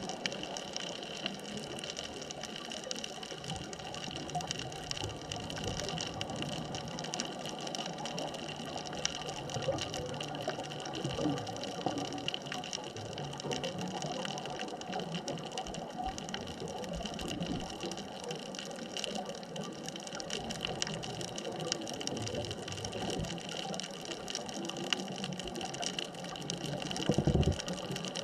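Underwater ambience on a reef: a constant fine crackle of tiny clicks over a watery hiss, with a louder bubbling surge about a second before the end.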